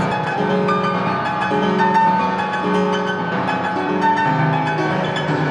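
Piano being played: a melody of changing notes over held low notes.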